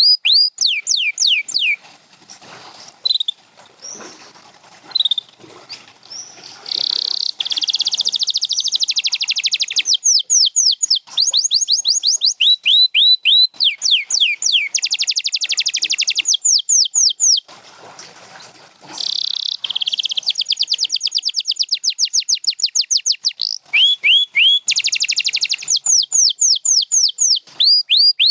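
Canary singing: runs of repeated down-slurred whistled notes alternate with long, very fast rolling trills, broken by two short pauses in which the song falls quiet.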